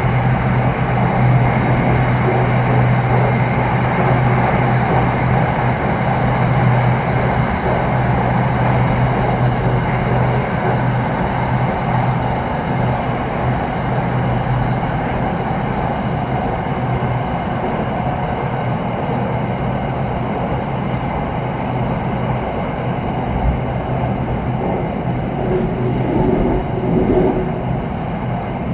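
Running noise inside a Bangkok SRT Red Line Hitachi electric commuter train. A steady low hum sits over wheel and rail rumble, easing slightly as the train nears a station.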